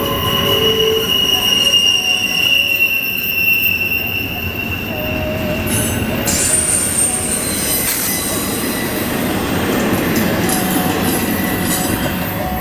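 CSX container freight train rolling past, its wheels squealing on the rail in several high, steady squeals that come and go, one fading about four seconds in and a higher one starting about six seconds in, over the continuous rumble of the cars.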